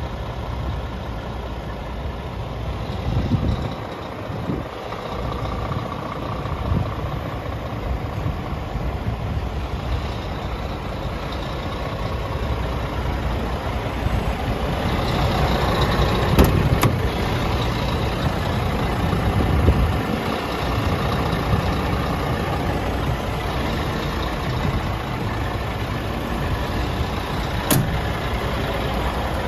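Scania R400 truck's diesel engine idling steadily, with a few sharp clicks around the middle and near the end.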